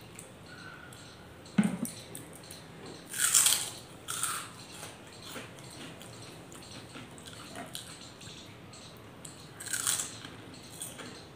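Close-up mouth sounds of eating soft homemade french fries: chewing and wet lip smacks, with a few louder smacks about three seconds in and near the end. A single sharp knock comes about a second and a half in.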